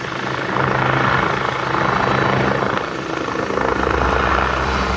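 Helicopter running close by: a steady low engine and rotor drone with noise that swells and eases several times.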